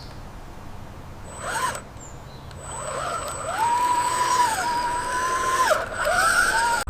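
Whine of a radio-controlled construction truck's small electric motor. It rises in pitch a few seconds in, holds steady with a brief dip, drops away, then rises again briefly near the end.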